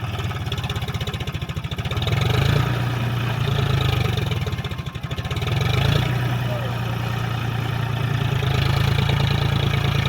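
John Deere 5045 D tractor's three-cylinder diesel engine running under load as the stuck tractor is worked out of sand. The revs rise about two seconds in, dip briefly near five seconds, then rise again and hold.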